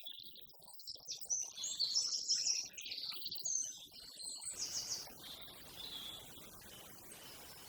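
Small birds chirping in quick high-pitched bursts. About halfway through, the chirping drops away to fainter calls over a steady outdoor hiss.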